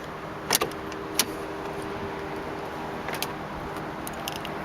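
A few sharp clicks and a light key jangle, keys being handled at the ignition of a 1993 Lincoln Town Car before it is started, over a steady low hum.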